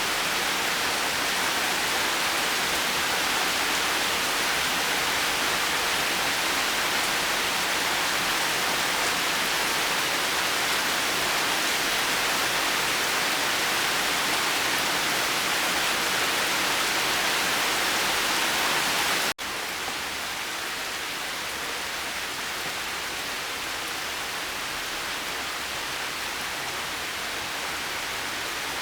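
Steady heavy rain hiss. About two-thirds of the way through, a brief gap, and the rain resumes a little quieter and less bright.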